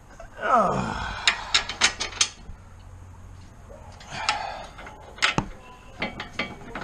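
Sharp metallic clicks and clinks of lug nuts and hand tools being handled and threaded onto a car's wheel studs, in several irregular clusters, with a short falling screech about half a second in.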